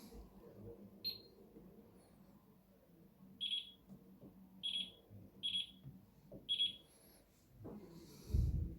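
Short, high electronic beeps from a Miele appliance's control panel: one about a second in, then four more at uneven intervals. The timing fits buttons being pressed rather than an end-of-cycle signal. Near the end comes a low thump, the loudest sound.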